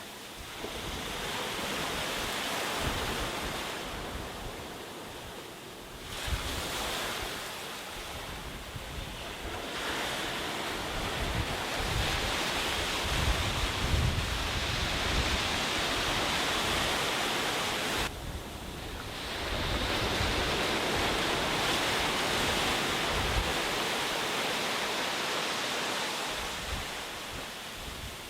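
Sea waves breaking and washing up a beach in about four long surges, each swelling and falling away over several seconds, one cutting off sharply about two-thirds of the way in.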